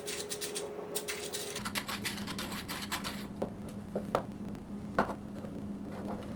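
3D printed fringe twister running with a steady hum that drops to about half its pitch a second and a half in, with scattered plastic clicks and scratches over it.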